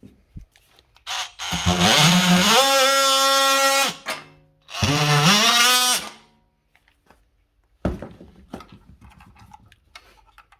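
Electric drill motor run twice: a longer run of about three seconds, then a short one. Each rises in pitch as the motor spins up, followed by a few light clicks and knocks.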